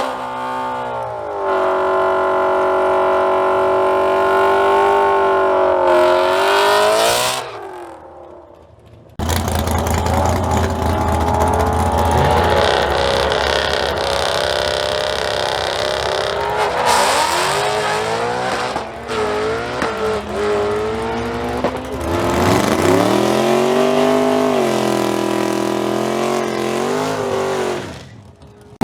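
Tuned cars' engines running hard at high revs in drag runs, the pitch rising and dropping at gear changes. Two separate runs: the first dies away about eight seconds in, the second starts suddenly about a second later and fades out near the end.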